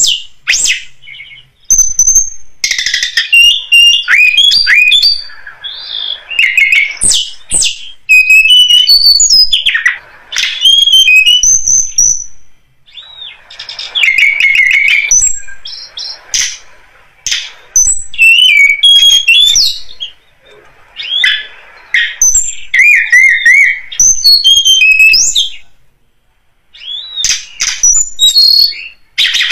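Tledekan gunung song, a lure recording: loud phrases of quick, high, warbling whistles and clicks, repeated in bursts of a second or two with short pauses between.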